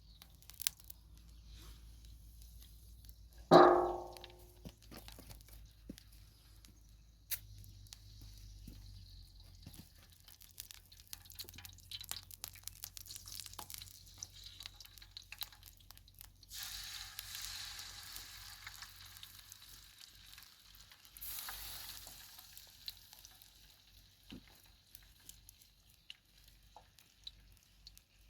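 Food sizzling in a pan over a wood fire, with small clicks and scrapes of cooking utensils. About three and a half seconds in there is a single loud, ringing clang that dies away over a second. The sizzle swells louder for a few seconds past the middle and again briefly a little later.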